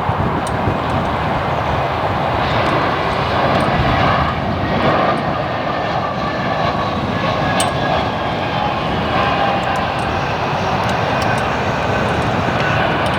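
Airbus A320 airliner's jet engines during its landing, a loud steady rush of engine noise with faint whining tones that drift slowly in pitch.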